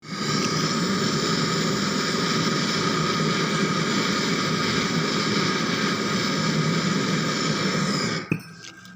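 A machine running steadily, a noisy hum with a few steady whining tones, that cuts off suddenly with a knock about eight seconds in.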